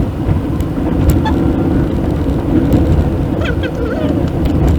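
Steady low road and engine rumble inside a moving car's cabin, picked up by the dashcam microphone, with a few faint clicks.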